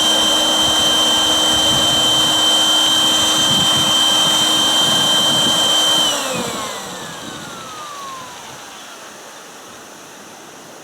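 Electric air pump inflating an inflatable boat, running with a steady high whine, then switched off about six seconds in and winding down with a falling pitch.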